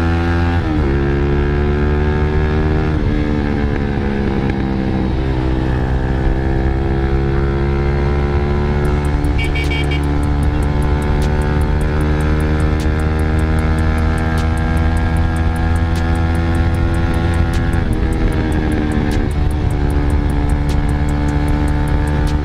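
Motorstar Z200S motorcycle engine pulling hard through the gears: the note climbs and drops at three quick upshifts in the first few seconds. It then rises slowly for a long stretch in one gear before falling again near the end.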